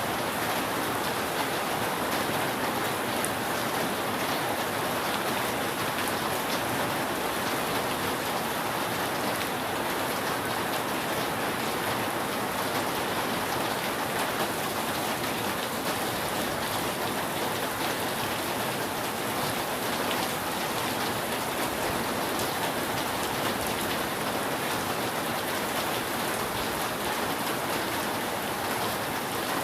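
Steady rain falling on a roof, an even wash of noise with single drops ticking sharply now and then.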